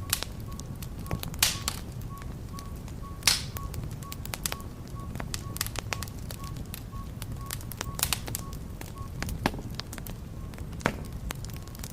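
Wood fire crackling in a fireplace: sharp pops and snaps every second or so over a low steady rumble of the flames, the loudest pop about three seconds in.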